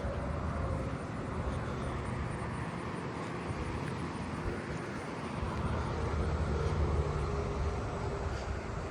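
Low engine rumble of a distant passing vehicle, steady at first and swelling louder about six to eight seconds in, then easing off.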